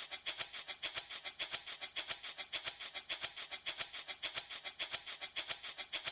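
Handmade baby rattle shaken steadily in a fast, even rhythm of about eight bright, hissy rattles a second.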